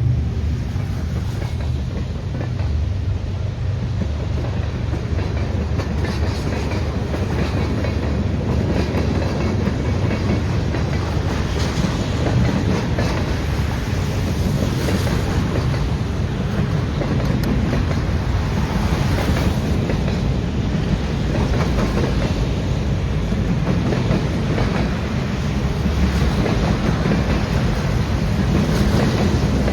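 Freight train's railcars rolling past: a steady low rumble with wheels clicking over the rail joints.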